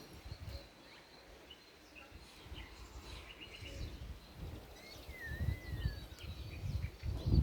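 Birds chirping and calling, with short repeated chirps and one wavering whistled note past the middle. Underneath is an uneven low rumble that grows louder near the end.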